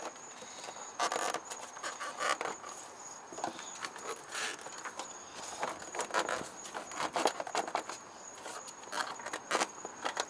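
Irregular plastic clicks, rattles and scrapes of hands pushing retaining pins into the plastic shield in a car's engine bay, with a steady thin high tone in the background.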